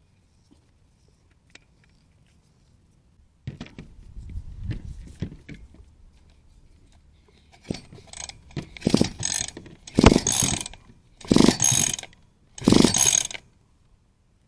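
Hand ratchet wrench clicking in short bursts of strokes while working bolts on a mini bike engine. A softer run comes a few seconds in, then several louder, quicker bursts near the end.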